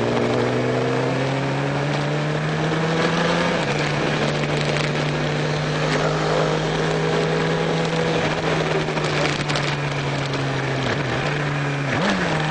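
Triumph racing motorcycle engine heard from onboard, held at high, steady revs with a thick rush of wind on the microphone. The pitch steps once early on and dips briefly twice near the end.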